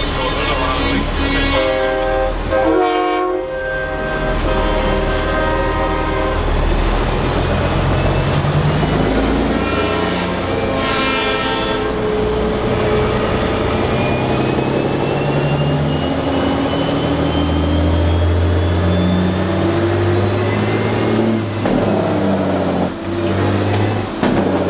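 Semi-truck air horns sounding, one blast in the first few seconds and another about ten seconds in, over the steady rumble of big diesel truck engines.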